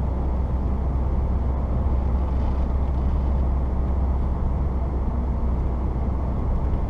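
Steady drone of a 1994 Saturn SL2 driving along a snowy road, heard from inside the car: its twin-cam four-cylinder engine and the road noise hold even, with no revving.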